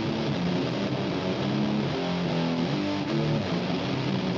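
Distorted electric guitars from a metal mix playing back through an Ampex ATR-102 tape-machine emulation set to 15 ips, with a few held notes changing about halfway through.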